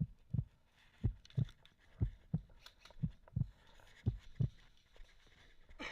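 Low, dull thumps coming in pairs, about one pair a second, in an even rhythm.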